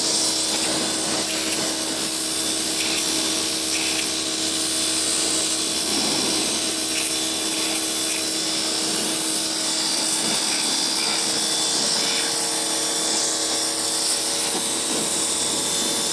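Atacama Black pressure washer running steadily: a constant motor hum with a strong hiss over it.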